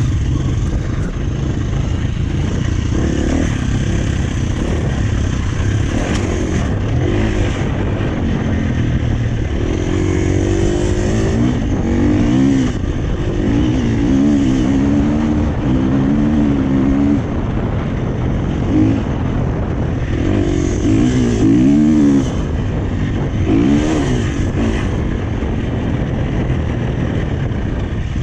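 2017 Husqvarna FE 350 dirt bike's single-cylinder four-stroke engine running through an FMF 4.1 exhaust while ridden, its note rising and falling again and again as the throttle is worked, most of all through the middle stretch.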